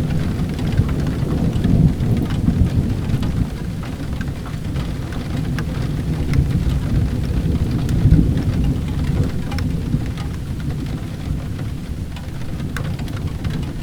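Steady rain with low rolling thunder underneath, swelling about two seconds in and again around eight seconds, and scattered sharp ticks over the hiss.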